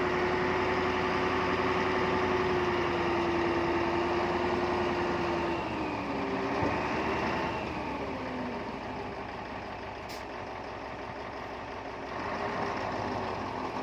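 Heavy diesel engine of a bulldozer or dump truck running at steady revs. About six seconds in its pitch wavers and falls as the revs drop, and it grows louder again near the end.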